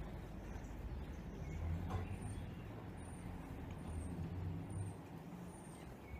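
Outdoor background: a low steady rumble, with a small bird giving short high chirps about twice a second for a few seconds from about two seconds in.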